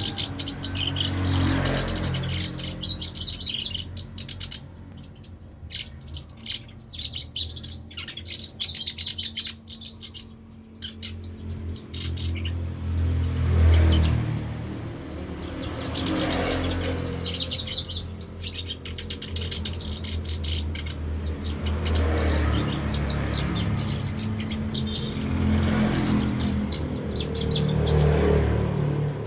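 Caged songbird singing vigorously in repeated runs of rapid high chirps, over a steady low rumble.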